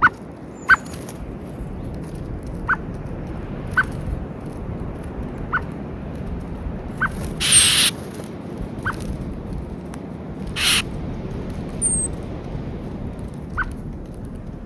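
Outdoor winter ambience at a bird feeder under a steady low rumble: a short call note repeats every second or two, a small bird gives a couple of thin high chirps, and two brief rustling bursts come about halfway through, typical of wingbeats as birds come and go.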